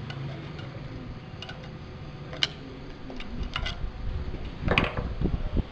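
Scattered sharp clicks and light knocks of hand-work on a refrigerator compressor as its cable connections are taken off, with a louder knock about five seconds in. A low steady hum runs underneath in the first half.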